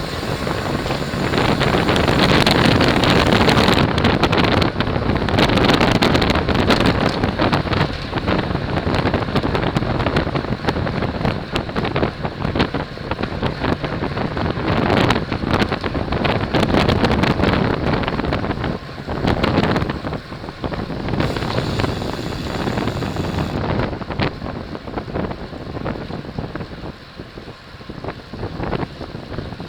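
Heavy wind buffeting on the microphone of a camera riding on a road bicycle at race speed: a loud, uneven rushing that swells and eases, and drops somewhat over the last several seconds.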